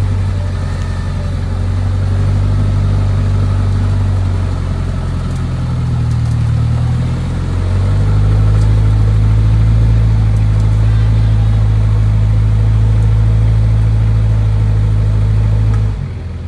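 Off-road 4x4 vehicle's engine running under varying throttle, its pitch shifting a few times. It gets louder about eight seconds in and drops off suddenly near the end.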